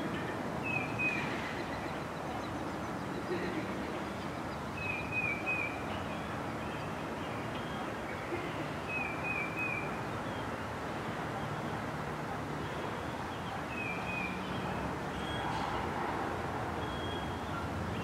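A wild songbird repeating a short phrase of two or three quick high notes about every four seconds, over a steady low background rumble.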